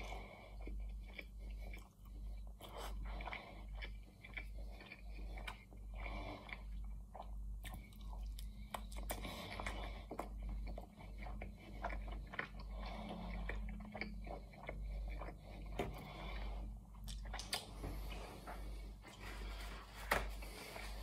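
Close-miked chewing of flaky puff-pastry chicken pie, crisp crunches and wet mouth sounds in a steady rhythm of about one to two chews a second. A sharp click stands out near the end.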